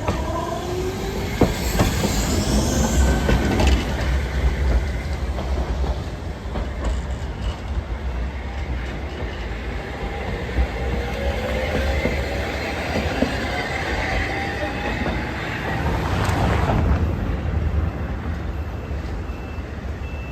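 Hankai Tramway streetcars pulling away: the traction motors' whine rises in pitch as a car accelerates, once in the first few seconds and again about nine to thirteen seconds in, over the rumble of wheels on the rails. The running noise swells briefly about sixteen seconds in.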